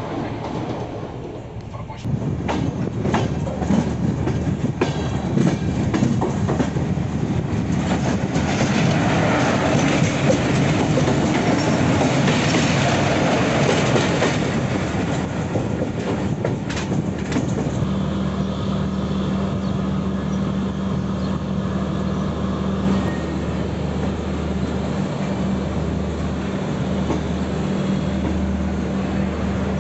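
Passenger train running on the rails, its wheels clattering over the rail joints, louder from about two seconds in. A steady low hum joins about halfway through.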